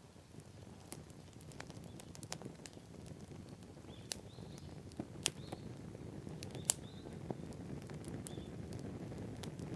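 Wood campfire crackling, with sharp pops scattered irregularly over a low rushing sound of the flames that grows steadily louder.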